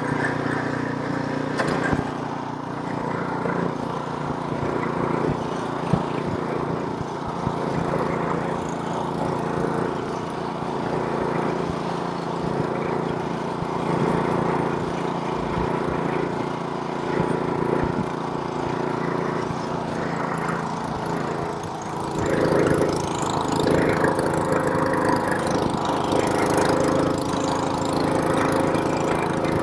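Small gas snowblower engine running steadily while clearing snow, getting louder about two-thirds of the way through.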